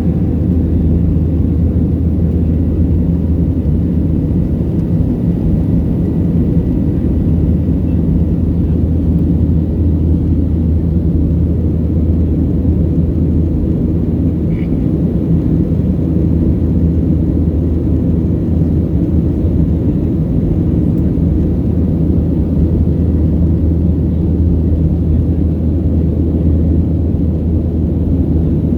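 Steady low drone of a Boeing 737-700 heard inside the passenger cabin: the CFM56-7B jet engines and airflow running evenly.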